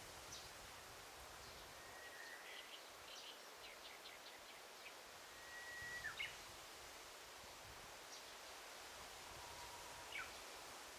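Faint forest birdsong over a soft steady hiss: a few thin, level whistled notes, one ending in a quick downward slide about six seconds in, among scattered short chirps, with a falling whistle near the end.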